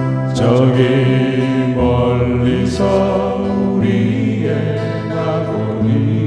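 Voices singing a slow Korean pop song over strummed acoustic guitar chords.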